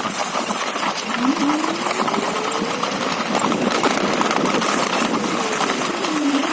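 Hoverboard hub motor on a homemade electric snowmobile, its whine rising in pitch as it speeds up about a second in, holding, then falling as it slows near the end, over a dense rattling crackle.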